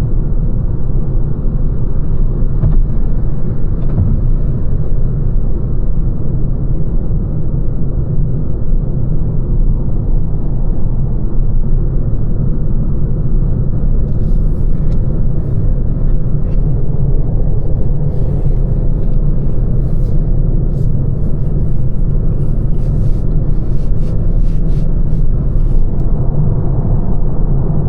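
Steady low road and tyre rumble heard from inside the cabin of a moving Lancia Ypsilon, with scattered faint clicks through the second half.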